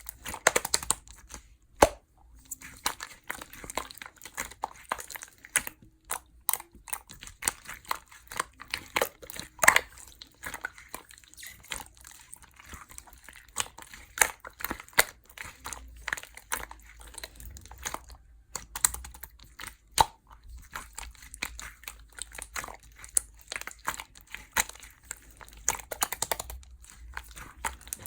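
Clear slime being squished and worked by hand, giving a rapid, irregular run of small clicks and pops.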